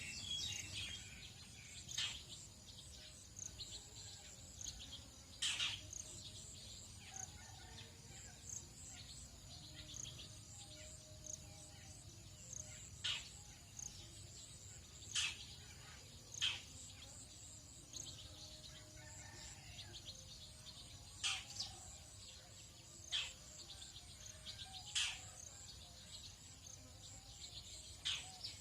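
Tropical dawn chorus: a steady, high insect trilling, with short, sharp bird chirps breaking in every few seconds.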